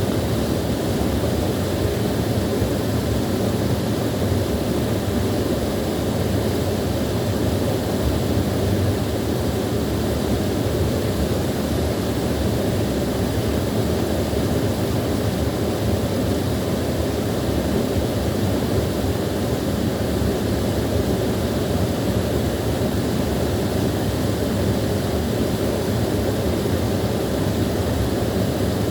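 Small waterfall pouring steadily: an even, unbroken rush of water, strongest in the low and middle range.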